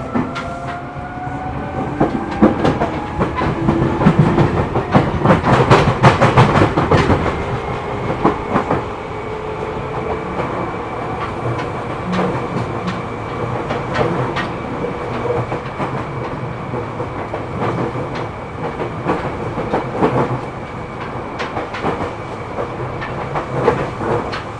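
Seibu New 2000 series electric train heard from inside the car while running. The traction motors' whine rises in pitch over the first few seconds as the train gathers speed, then holds steady. The wheels clatter over rail joints throughout, heaviest a few seconds in.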